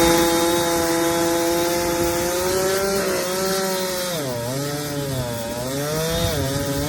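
Chainsaw running at full throttle and cutting wood. Its engine note holds high, then sags twice in the second half as the chain bites into the cut, and recovers each time.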